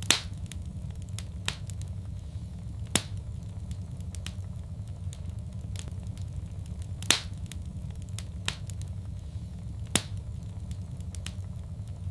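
Wood fire crackling in a fireplace: a steady low rumble of burning under sharp pops every second or two. The loudest pops come right at the start, about seven seconds in and about ten seconds in.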